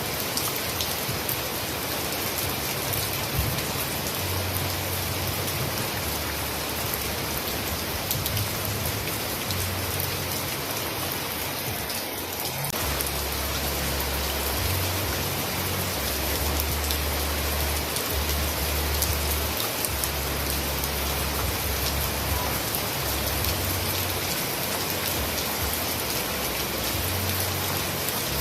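Heavy rain falling steadily, a dense even hiss of drops, with a low rumble underneath that comes and goes.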